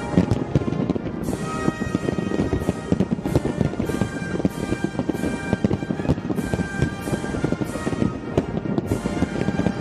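A fireworks display with shells bursting and crackling, mixed with a music soundtrack that has a steady beat.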